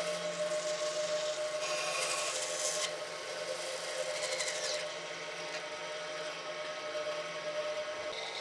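Electric power tool running steadily on wood, with a louder, hissy burst of cutting or abrading about two seconds in, then lighter contact.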